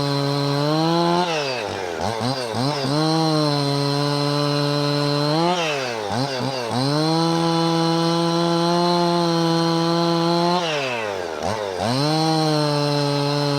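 Husqvarna 55 two-stroke chainsaw running at high revs, its pitch held steady for a few seconds at a time. Three times it falls away sharply, wavers up and down for about a second, and climbs back to full speed.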